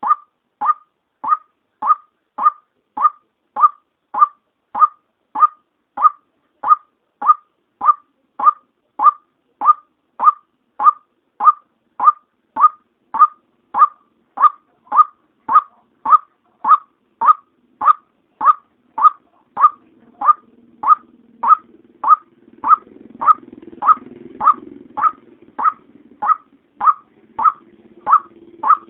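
White-breasted waterhen (female) call used as a lure, a short note repeated steadily about twice a second. A faint low hum joins about two-thirds of the way through.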